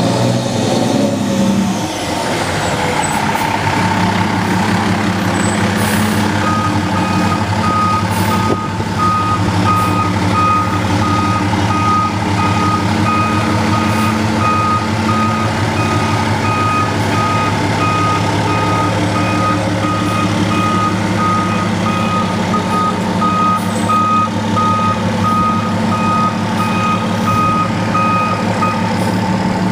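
Fire engine's diesel engine running steadily while its reversing alarm sounds evenly spaced, high-pitched beeps, starting about a quarter of the way in and stopping just before the end.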